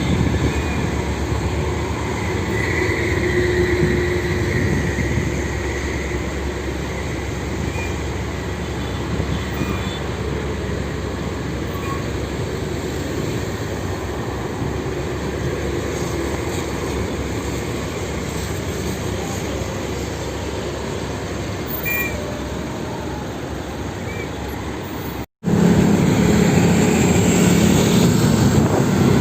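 Steady engine and road noise from trucks and traffic. Near the end there is a sudden cut, after which a louder engine hum with a steady low tone takes over.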